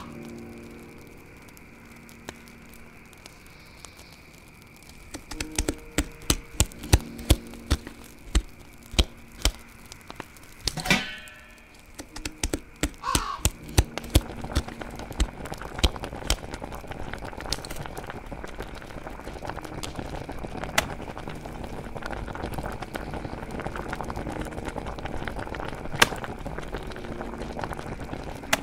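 Horror sound-effect ambience. About five seconds in, a knife starts chopping on a wooden board in a quick, irregular run of sharp knocks, with two short gliding cries in the middle. Then a steady bubbling, crackling hiss of a pot boiling over a wood fire builds up to the end, over a faint eerie drone.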